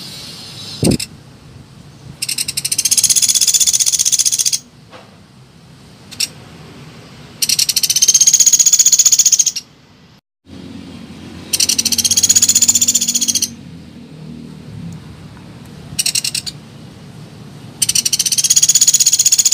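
Pelatuk beras woodpecker calling: four loud, high, dry rattling trills of about two seconds each, with a few short bursts in between.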